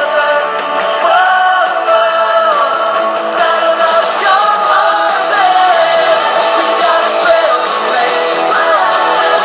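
Music: an upbeat song with singing.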